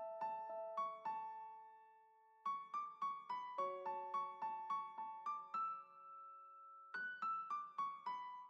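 Piano playing a gentle melody in short runs of struck notes over held chords, pausing briefly after the first phrase and ending on a held note that fades away.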